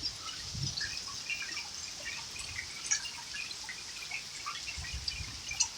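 Rain falling steadily in a thunderstorm, with many separate drops and drips splashing.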